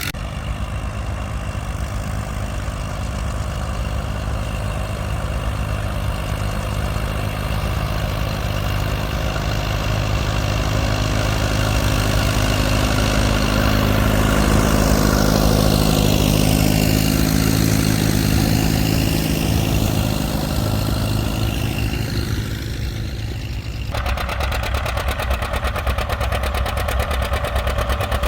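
Tractor engines running under load while plowing. One passes close by in the middle with its sound sweeping. About 24 s in, this gives way abruptly to another tractor engine with a fast, even exhaust pulse.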